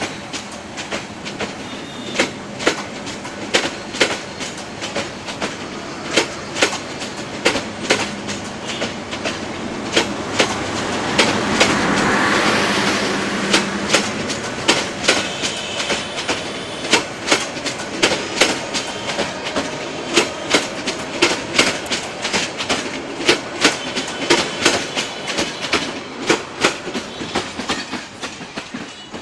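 Bangladesh Railway intercity passenger coaches rolling past, their wheels clicking over the rail joints in a steady clickety-clack over a running rumble. The rumble swells about twelve seconds in, and the sound fades near the end as the train moves away.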